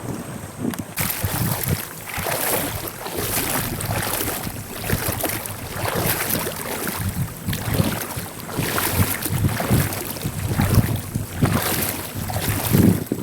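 Wind buffeting the microphone, with a rushing water-and-wind noise that swells and falls about every second.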